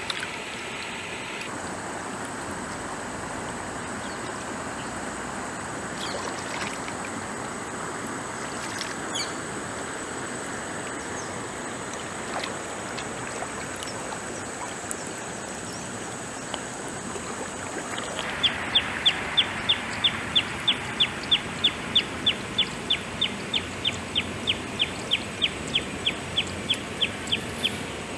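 Stream water running steadily. About two-thirds of the way in, a bird starts calling a rapid, even run of short sharp notes, about four a second, over the water.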